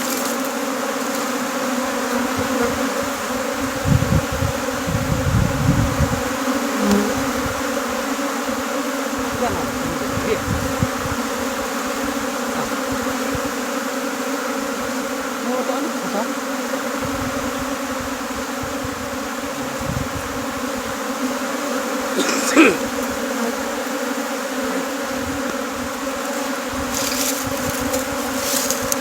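A mass of honeybees buzzing, a steady hum of many bees around an open hive. A single sharp knock comes about three-quarters of the way through.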